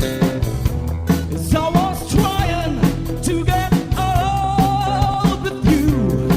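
Rock band playing with drums and guitar, a sung vocal line coming in about a second and a half in and holding long notes.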